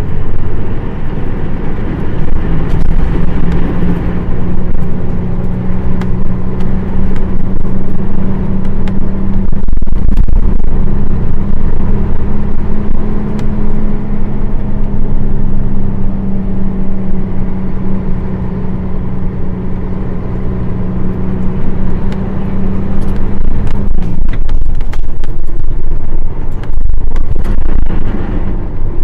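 Nissan Diesel PF6 diesel engine of a KL-UA452KAN city bus running under way with a steady drone. The drone breaks briefly about ten seconds in and falls away a few seconds before the end.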